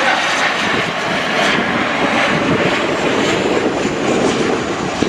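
An airliner's engines running loud, a steady rush of noise that stays even throughout.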